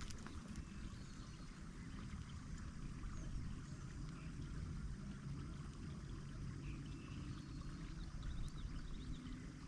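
Quiet creek ambience heard from a kayak: faint water sounds over a steady low rumble, with a few faint high chirps.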